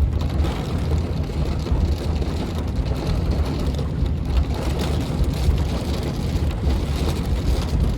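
Steady monsoon thunderstorm rain with a continuous low rumble beneath it, the storm having eased a little.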